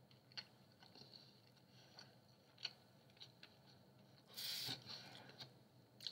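Faint chewing of a mouthful of Hawaiian pizza with a rising crust, with soft, scattered mouth clicks and a louder rushing sound lasting about half a second a little after four seconds in.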